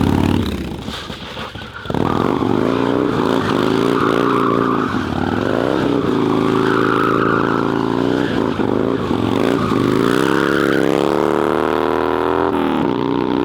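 Harley-Davidson Dyna FXDX V-twin engine held at high revs while the rear tire spins through a drift. It picks up sharply about two seconds in, runs steadily, and its pitch climbs near the end before easing off.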